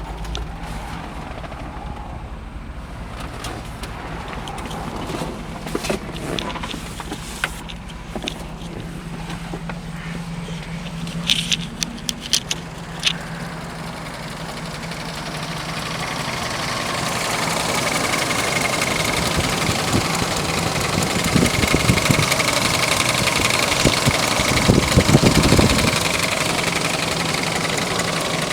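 Hummer H2's 6.0 LQ4 Vortec V8 running with a steady idle, a few sharp clicks about halfway through, then a louder, noisier sound in the second half.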